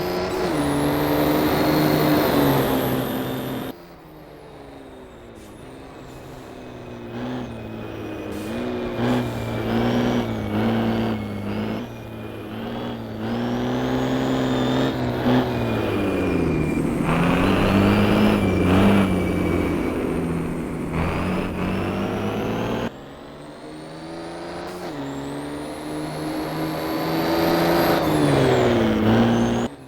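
Racing truck diesel engines running hard and revving, their pitch rising and falling with acceleration and gear changes. The level drops suddenly twice, about four seconds in and again past twenty seconds, then builds again.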